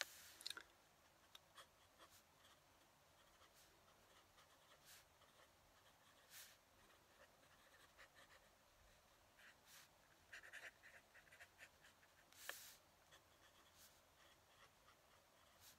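Fountain pen writing on paper: faint, intermittent nib scratches in short strokes, with a few sharper strokes, the loudest about twelve and a half seconds in.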